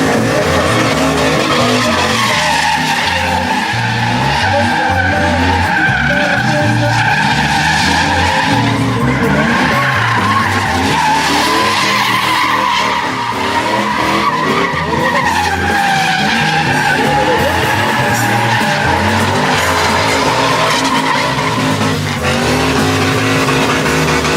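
Truck tyres squealing continuously as the wheels are spun, the screech wavering up and down in pitch over the engine's low rumble.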